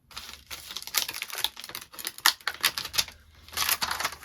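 Rapid, crisp clicking and rustling of card and crafting tools being handled, in several busy spells.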